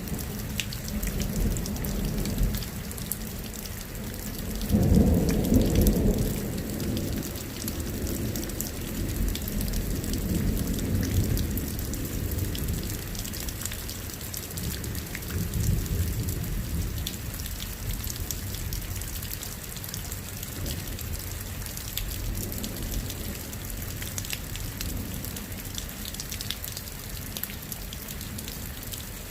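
Steady rain falling with scattered drop patter, and rolling thunder: a deep rumble loudest about five seconds in, followed by fainter rumbles that die away.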